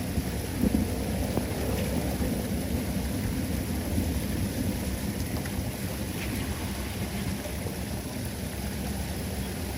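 Steady rush of flood water pouring down a cleared drain, heaviest in the low end, with a few faint ticks.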